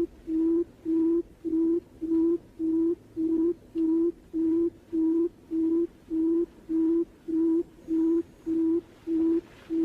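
Barred buttonquail's booming call: a long, even series of short low hoots at one steady pitch, about two a second.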